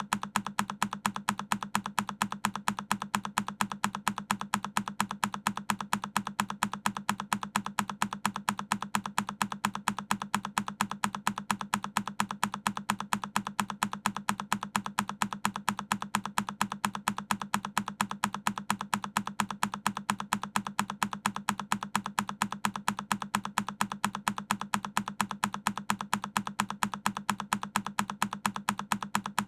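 A single key on a Keychron K10 mechanical keyboard being pressed, one sharp click repeated at an even rhythm a few times a second.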